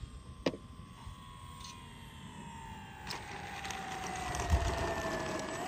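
Electric motor of a remote-controlled aircraft whining, its pitch sliding slowly down, then rising quickly right at the end as the throttle opens. A couple of faint clicks along the way.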